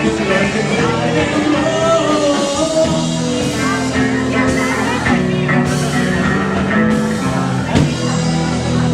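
A live rock band playing an instrumental stretch, with electric guitar, bass and drums, and cymbal crashes every second or so in the middle.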